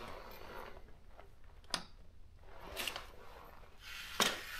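Small mechanical clicks from a Daro 20 typewriter's keys and parts, a few of them about a second apart, over faint rubbing as the machine is being cleaned.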